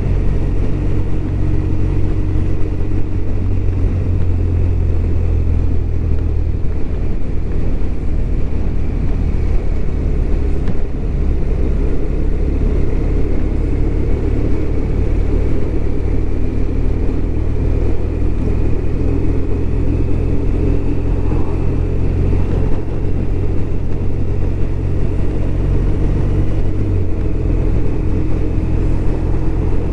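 BMW R1200RT's boxer-twin engine running steadily as the motorcycle rides along, with a rushing noise over it; the engine note shifts near the end.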